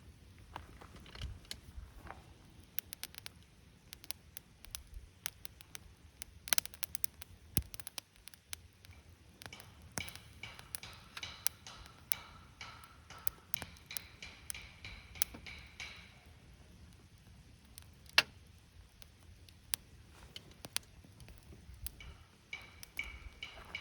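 Wood campfire crackling with irregular sharp pops, the loudest about eighteen seconds in. A bird sings a run of high notes from about ten to sixteen seconds in and again near the end.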